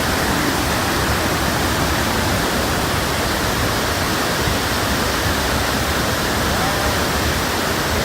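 Steady, loud rush of a large waterfall, a continuous even roar of falling water with no breaks.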